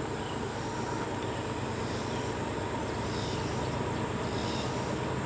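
A train running with a steady mechanical rumble and a faint steady whine over it.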